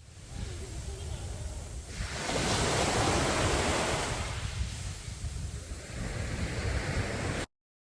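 Sea waves breaking and washing up a beach, swelling to a loud peak about two seconds in and again near the end, with wind rumbling on the microphone. The sound fades in at the start and cuts off abruptly near the end.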